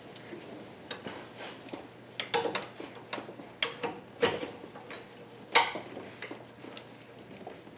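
Metal hand tools and parts clinking and knocking against each other in an engine bay: a dozen or so irregular sharp clinks with a short metallic ring, the loudest about five and a half seconds in.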